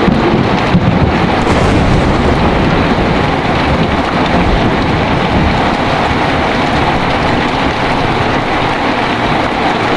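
Heavy rain pouring steadily, with a low thunder rumble over the first couple of seconds that fades into the rain.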